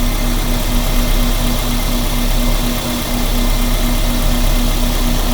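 Car engine idling steadily, with an even, regular pulse.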